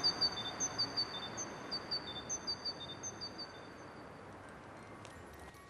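Small birds chirping in quick, short, high tweets at a few fixed pitches, thinning out and fading away over about four seconds. Faint chime-like notes begin near the end.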